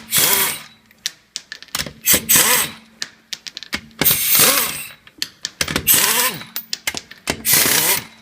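Impact gun spinning lug nuts off a wheel stud, five short bursts about one and a half seconds apart, each rising and falling in pitch, with small clicks of metal between them.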